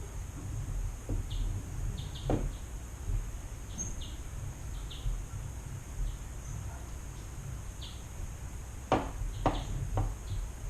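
Steady low background hum with many short, faint high chirps scattered through it and a few soft clicks, one about two seconds in and a cluster near the end.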